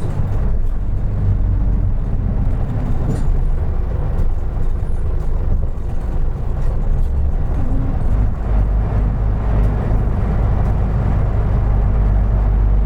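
Isuzu Erga Mio city bus running, its diesel engine and road noise making a steady low rumble that eases off briefly in the middle and builds again toward the end, with a couple of faint clicks.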